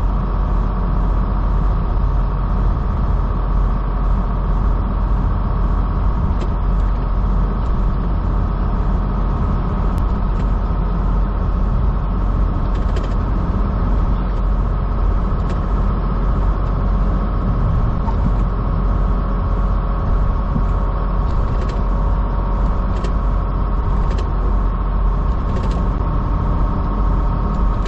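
Semi truck's diesel engine droning steadily, heard from inside the cab, with the Jake brake (engine compression brake) engaged to hold back the heavily loaded truck on a steep downhill grade.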